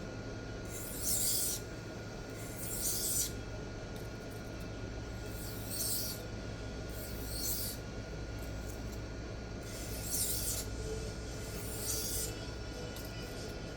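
Nitro V knife blade drawn across a Sharpal diamond sharpening plate in separate strokes, each a short scratchy hiss. There are about six strokes, with pauses of one to three seconds between them, over a steady low hum.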